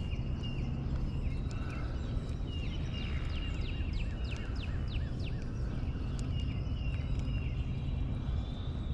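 Songbirds singing and calling: repeated short chirps throughout and a run of quick descending whistles in the middle, over a steady low rumble.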